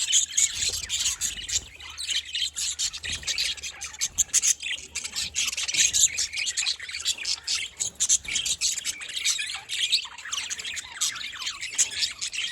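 A flock of budgerigars chattering and chirping continuously, many quick overlapping high chirps and squawks with no pause.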